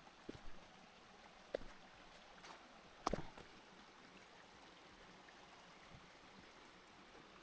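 Faint, steady sound of a stream running, with a few footsteps on stones during the first three seconds, the loudest step about three seconds in.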